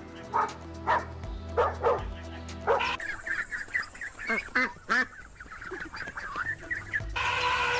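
Short, repeated animal calls over steady background music. About three seconds in the calls change abruptly to a busier run of quicker, higher calls.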